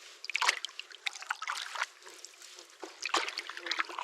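Canoe paddle strokes in lake water: a few irregular splashes, with water trickling and dripping off the paddle blade between them.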